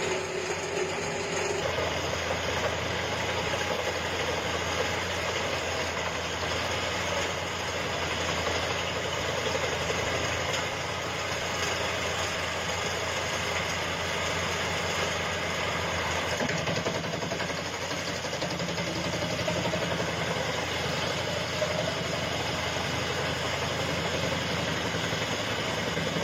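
Large wood chipper's engine and chipping unit running steadily with a dense mechanical rumble and hum. A steady tone drops out about two seconds in and the low rumble grows stronger.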